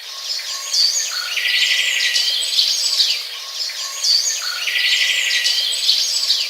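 Birdsong: a recording of chirps and whistles with a buzzy trill, the same phrase repeating about every three seconds over a steady outdoor hiss.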